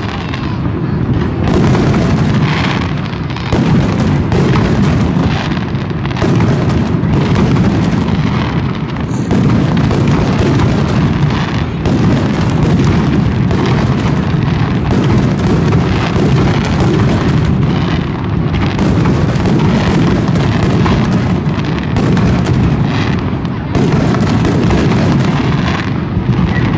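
Fireworks display: aerial shells bursting in a loud, near-continuous barrage of overlapping booms and bangs.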